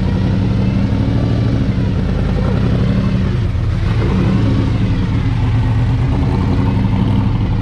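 V8 car engine running steadily at low speed close by, as the car rolls slowly into its spot.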